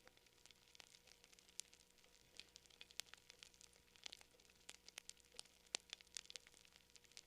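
Campfire crackling: faint, irregular sharp pops and snaps over a soft hiss.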